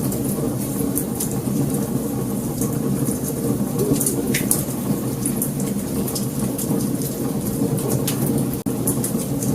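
Wood fire burning: a steady low rumble of flames with frequent sharp crackles and pops.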